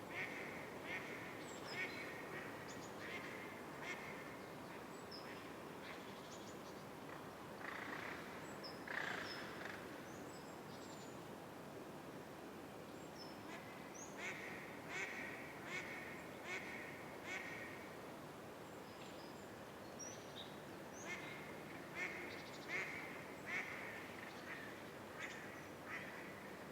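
Birds calling: one bird gives a call repeated in bouts of several calls, each about a second apart, with short high chirps from other birds scattered between, over a steady background hiss.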